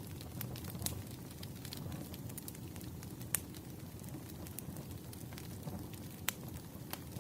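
Burning firewood crackling over a steady low rumble of flames, with scattered sharp pops, two of them louder, about three and six seconds in.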